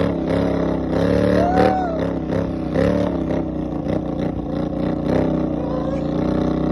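Vehicle engine revving under load, its pitch rising and falling, then running steadier from about five seconds in.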